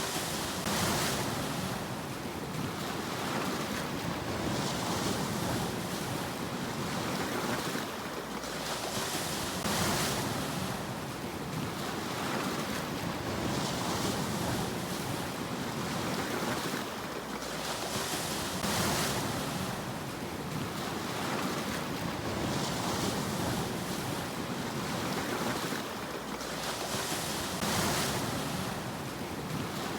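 Sea waves washing in, with a rush of surf swelling about every four to five seconds over a steady wash of water.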